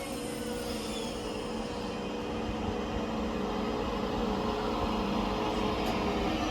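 Passenger train at the station platform: a steady mechanical hum with a few held tones, growing slowly louder.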